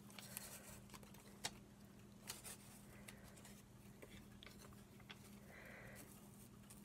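Near silence with faint scattered ticks and rustles of paper postage stamps being handled, over a steady low electrical hum.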